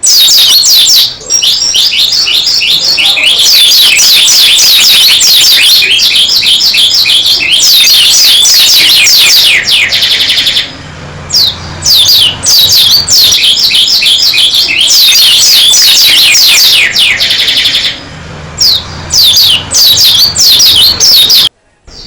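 Pleci dakun white-eye singing hard in long, rapid phrases of high downward-slurred notes. Each phrase ends in a fast buzzy trill, then breaks off briefly before the next begins.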